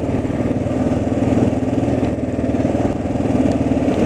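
Vehicle engine running steadily, a rapidly pulsing low hum that holds through the whole stretch.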